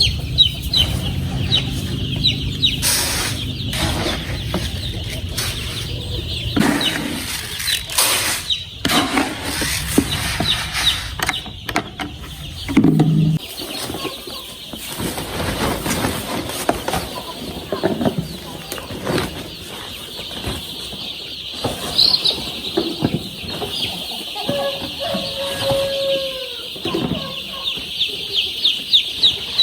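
Many young chicks peeping continuously in high, rapid chirps, with scattered knocks and rustling. A low hum runs through the first several seconds, and a short lower call sounds near the end.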